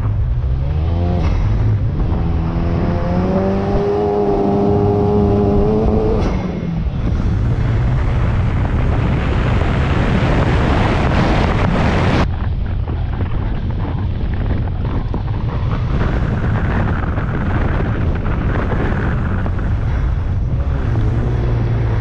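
Turbocharged four-cylinder car engine under hard acceleration, heard from a hood-mounted camera: its pitch climbs for the first six seconds, then gives way to a dense rushing noise of engine, wind and wet road. About twelve seconds in the sound changes abruptly to a steadier engine note.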